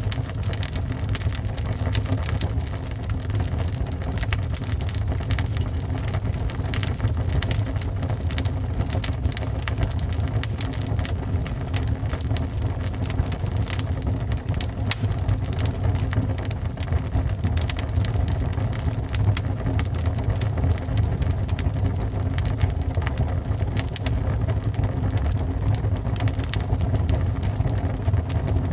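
Wood fire burning in a fireplace: frequent sharp crackles and pops from the logs over a steady low rumble of the flames.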